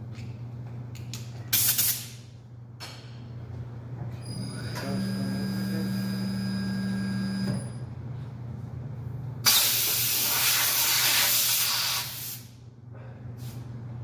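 Compressed air hissing through the valve stem of a truck tyre as it is inflated with an electronic inflator gauge. There is a short burst about a second and a half in and a longer, louder burst of about three seconds near the end. A steady buzz comes from the gauge or inflator for about three seconds in the middle, and a steady low hum runs underneath.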